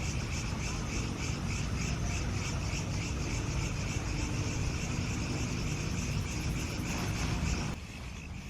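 Insects, cricket-like, chirping in a steady pulsing rhythm of about three pulses a second, over a low rumbling noise that cuts off abruptly near the end.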